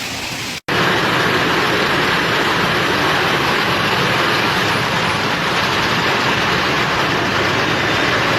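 Loud, steady rushing roar of a windstorm, starting abruptly after a short break in the sound less than a second in and holding even throughout.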